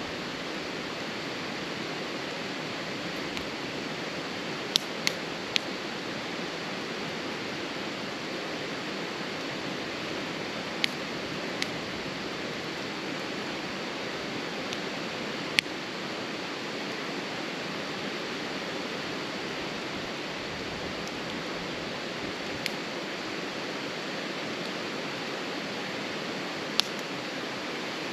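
Wood fire burning, with sharp, sparse pops and crackles at irregular intervals over a steady rushing hiss.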